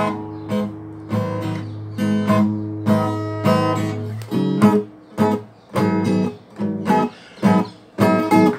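Acoustic guitar playing the introduction to a tango song, chords strummed about every half second. The first chords ring on, and from about four seconds in the strums turn short and clipped.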